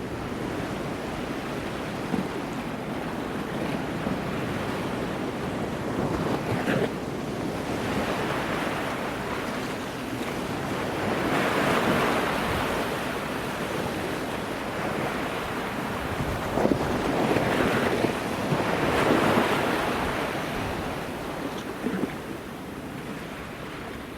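Wind on the microphone over the wash of water, a steady rushing noise that swells louder twice, about halfway and again about three-quarters through, with a few brief gusty thumps.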